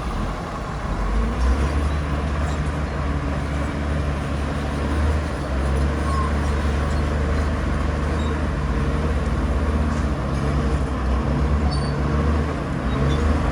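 Heavy diesel engine of earthmoving machinery running steadily under load, a low droning note that holds throughout.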